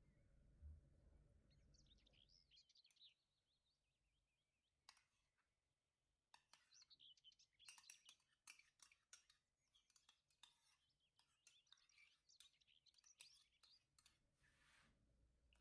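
Faint small birds chirping and twittering, with scattered faint clicks through the second half.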